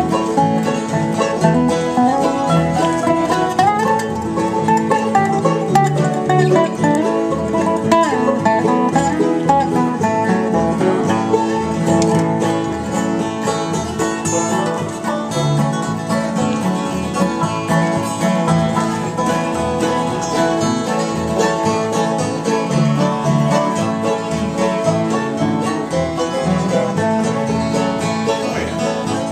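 Bluegrass music played without a break, with banjo and guitar picking prominent.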